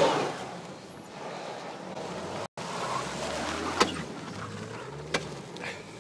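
A car engine running and revving as the car slides on snow, its pitch rising about two-thirds of the way through. Two sharp clicks are heard, and the sound drops out completely for an instant about two and a half seconds in.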